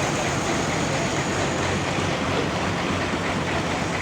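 Sawmill machinery running steadily: a low engine hum under a loud, even noise with no breaks or changes.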